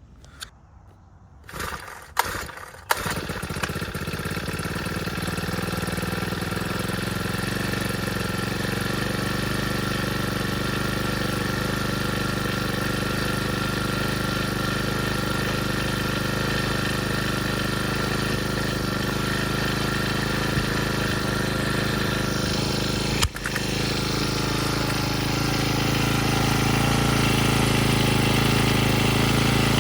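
Cold start of a Honda HHT35S trimmer's 35cc four-stroke GX35 engine on choke: a couple of recoil pulls, then it catches about three seconds in and runs steadily. It stumbles briefly about 23 seconds in, then runs on a little louder.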